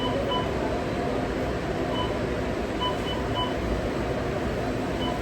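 Steady machine and ventilation hum of a working kitchen, with short electronic beeps that come at irregular intervals, several in quick pairs or triplets.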